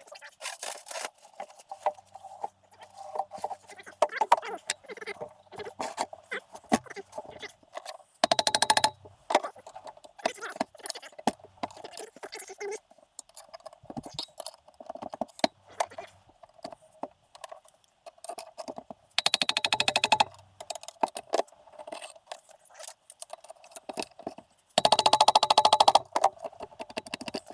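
Scattered clinks and knocks of hand tools on metal engine parts during a teardown, with three louder bursts of fast rattling, each about a second long.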